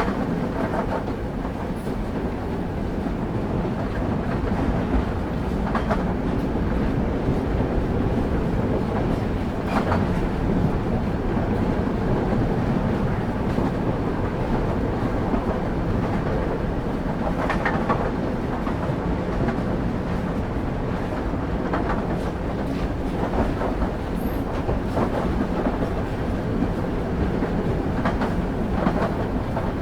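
Train wheels running on the rails: a steady low rumble with a sharp click every few seconds as the wheels pass rail joints.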